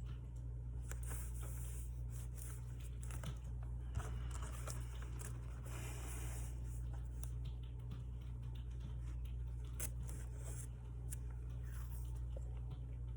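Steady low electrical hum, with faint rustling, tearing and small clicks of paper and washi tape being handled.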